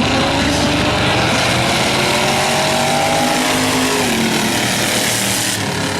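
Several demo race car engines running hard around the oval. One engine's pitch climbs slowly, then falls away about four seconds in. A high hiss stops suddenly near the end.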